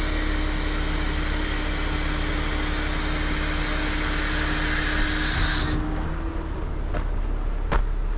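Heavy truck's diesel engine running steadily under a loud, even hiss that cuts off suddenly about six seconds in, leaving the engine rumble and a few sharp clicks near the end.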